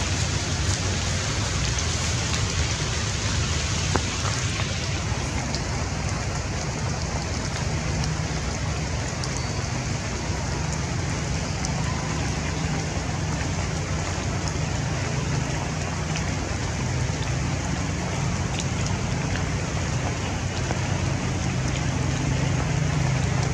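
Steady rain falling, with a few single drop clicks and a low steady hum underneath.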